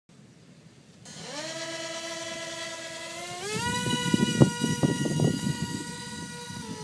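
Small electric propeller motors of a homemade RC air boat spinning up with a rising whine about a second in, holding steady, then stepping up to a higher pitch near the middle as the throttle opens. Irregular low knocks and rushes run under the whine from then on.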